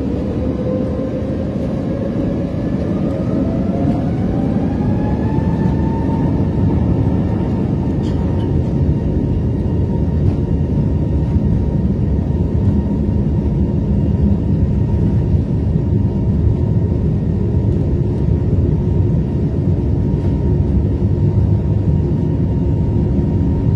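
Airbus A321neo jet engines spooling up to takeoff thrust. A whine rises in pitch over the first six seconds or so and then holds steady over a loud, heavy rumble.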